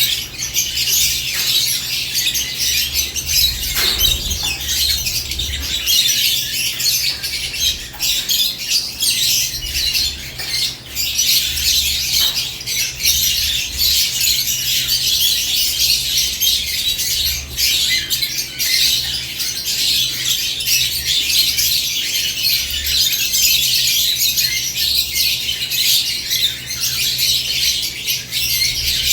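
Lovebirds chirping and squawking together in a cage, a dense, continuous high-pitched chatter with occasional short clicks.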